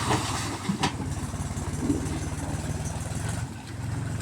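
Mahindra tractor's diesel engine running steadily with a fast even firing beat, easing off briefly about three and a half seconds in. A couple of sharp clicks sound over it in the first two seconds.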